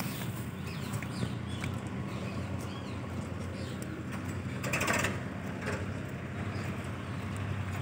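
Small birds chirping repeatedly over a steady low mechanical hum, with one brief louder sound about five seconds in.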